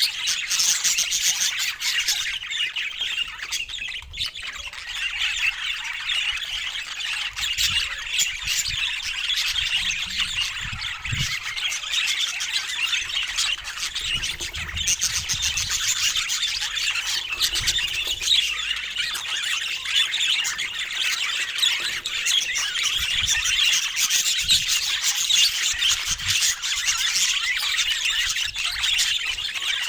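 A group of budgerigars chattering and squawking without a break, many quick, high calls overlapping.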